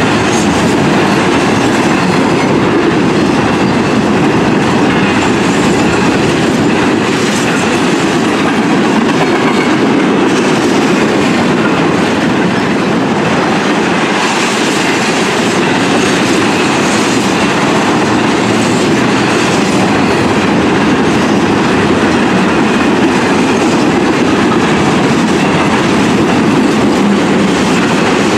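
A train's railroad cars rolling steadily past on the track, a loud continuous rumble and wheel clatter that holds at the same level throughout.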